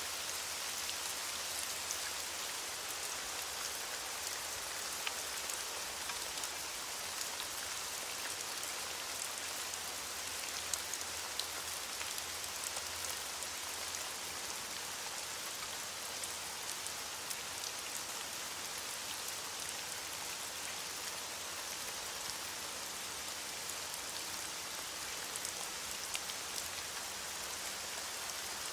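Steady heavy rain falling on a surface, an even hiss with scattered sharp drop ticks.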